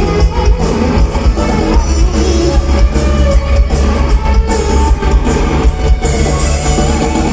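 Loud amplified live rock band playing, with guitar, heavy bass, steady drum hits and a singer.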